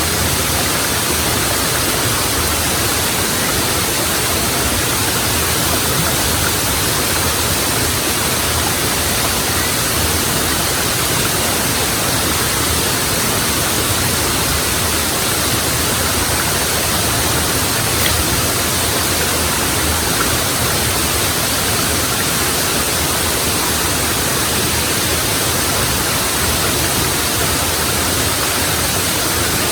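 Steady, unbroken rush of a waterfall, with a single faint click about 18 seconds in.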